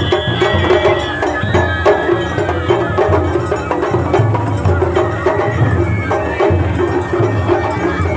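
Japanese festival music played live: drums beating a steady pattern under fast metallic clicking and a high flute melody that holds and slides between notes.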